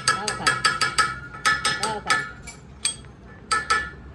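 A hammer striking steel in quick runs of ringing blows, about six a second, with pauses between the runs and a few single strikes.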